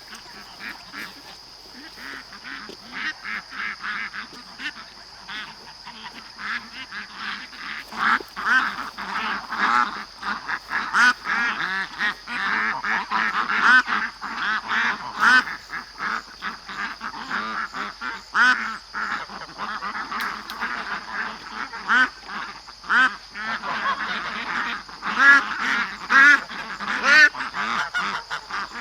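A flock of domestic ducks and geese calling over one another: many short, overlapping quacks and honks. It grows busier and louder about eight seconds in.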